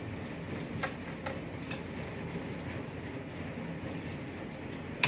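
Light clicks from small fuel pump module parts being handled and snapped together, a few faint ones about a second in and one sharp click at the very end, over a steady low rumble.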